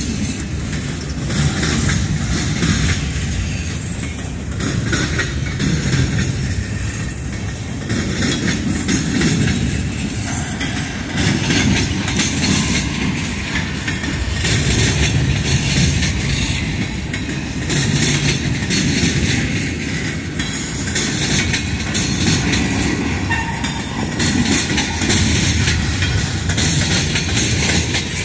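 Freight train of boxcars and tank cars rolling past at close range: a continuous rumble of steel wheels on the rails, swelling and easing every few seconds as the cars go by.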